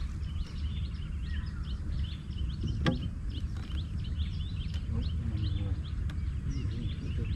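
Many short, high bird chirps over a low, steady rumble, with one sharp click about three seconds in.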